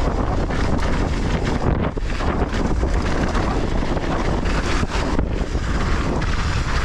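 Wind rushing over a GoPro's microphone on a fast downhill mountain-bike run, with the bike clattering over the trail in a few short knocks.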